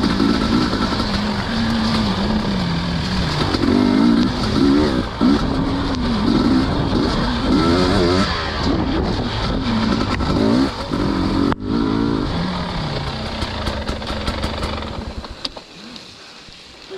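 Off-road dirt bike engines revving up and easing off again and again, the pitch rising and falling, as riders work a slippery, muddy trail. The engine sound falls away about fifteen seconds in.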